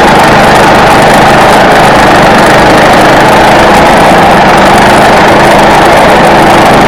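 Engine-driven log-milling saw running steadily and loud as it cuts through a log.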